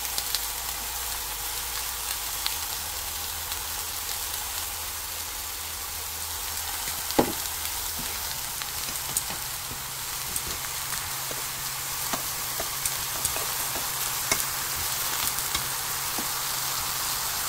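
King oyster mushroom slices pan-frying in oil in a nonstick frying pan: a steady sizzle with scattered small pops and clicks.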